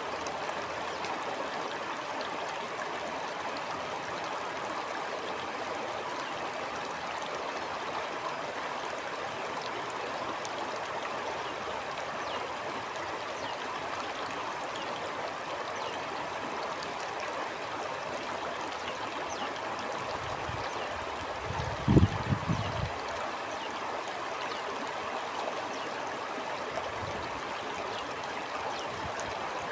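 Stream flowing: a steady rush of running water with some gurgling. About two-thirds of the way through, a short burst of low thumps sounds over it, the loudest moment.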